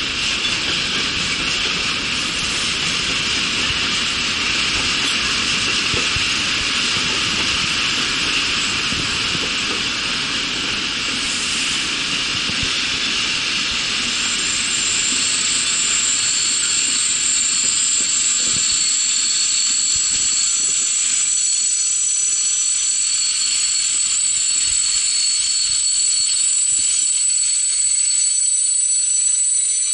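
Passenger train rolling slowly, heard from its own carriage: a steady rolling hiss, joined about halfway by several high, steady squealing tones that hold until the end.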